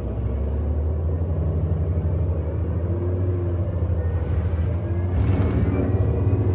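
A 2008 Orion NG hybrid-electric bus under way, heard from inside: a steady low rumble of the drivetrain and road. From about five seconds in, a thin high electric-motor whine rises slowly in pitch as the bus picks up speed.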